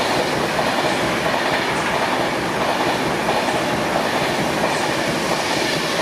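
Class 390 Pendolino electric train moving past close by along the platform: a steady, loud rumble and rail noise from its wheels and coaches.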